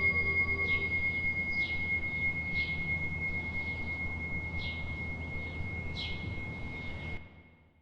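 A struck bell ringing out as one steady high tone, slowly fading, while small birds chirp in short falling notes about once a second. Everything fades away near the end.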